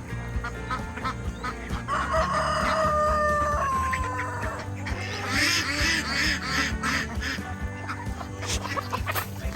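Mixed poultry flock of ducks, geese and chickens calling around the feed. A rooster crows about two seconds in, one long call that dips at its end, followed by a burst of harsh, rapid calls.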